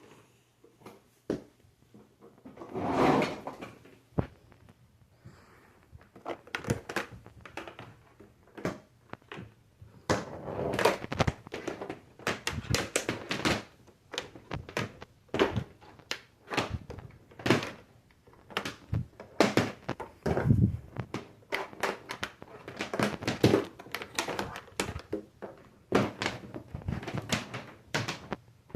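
Irregular knocks, clicks and thuds of things being handled in a small room, a few each second, with no motor running.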